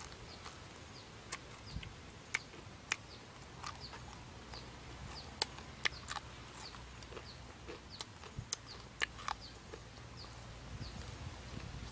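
Close-up chewing and lip-smacking of a person eating grilled chicken gizzard, heard as scattered sharp wet clicks. A bird chirps over and over in the background at an even pace, about twice a second.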